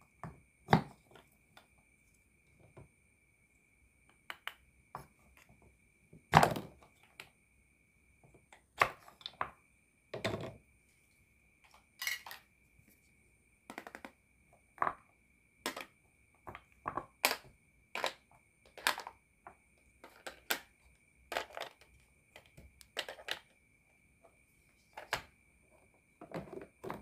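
Wooden toy fruit pieces and a wooden toy knife clacking and knocking as they are cut apart and set down on a wooden board and a plastic tray, in short irregular clicks and taps, the loudest about six seconds in. A faint steady high tone runs underneath.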